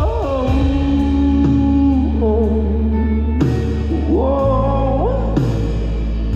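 Live band of guitar, bass and drums playing a slow song, with the lead singer carrying long wordless vocal runs over it.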